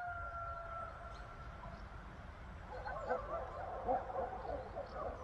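A long, slightly falling howl, then from about halfway through a chorus of overlapping wavering yelps and calls, over a steady low rumble.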